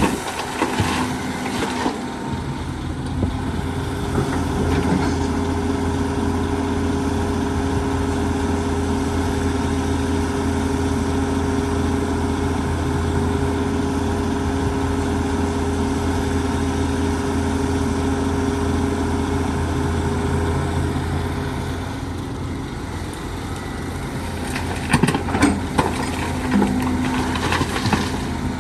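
Heavy diesel engine of an excavator loading a dump truck, running steadily, with sharp knocks and clanks about a second in and again a few seconds before the end.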